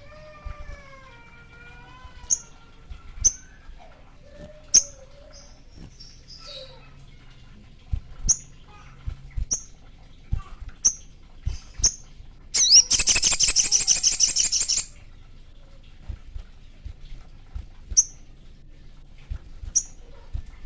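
Male sogon songbird calling: a string of short, sharp, high chips, a wavering whistled phrase near the start, and one loud rapid trill lasting about two seconds in the middle. These are the calls of a male in breeding condition challenging a rival.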